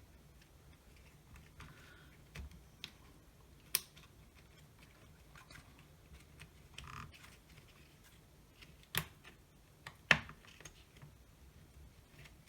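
Scattered sharp clicks and taps of small drill parts and tools being handled, the loudest about four, nine and ten seconds in, over a faint low hum.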